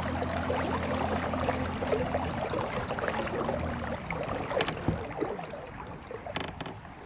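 Water splashing and lapping around a kayak. Under it runs a low steady hum that fades out about four seconds in.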